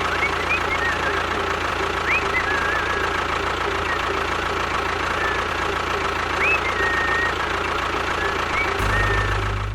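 Engine running steadily at idle, with a few short high chirps over it; the low rumble grows heavier near the end.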